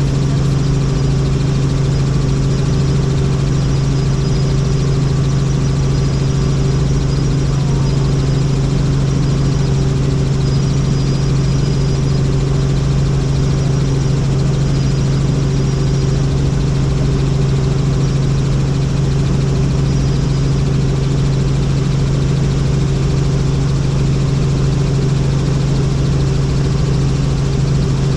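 Helicopter in flight: a loud, steady drone of rotor and engine, with a strong low hum that holds unchanged throughout.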